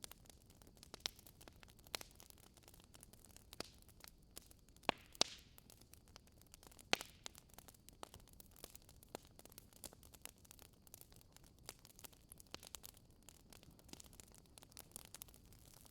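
Swedish fire log burning, the wood crackling in irregular sharp pops over a faint steady hiss; the loudest pops come about five and seven seconds in.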